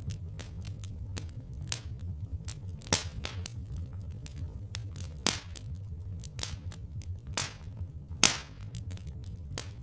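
Wood fire crackling with irregular sharp pops, three of them louder, over a steady low rumble.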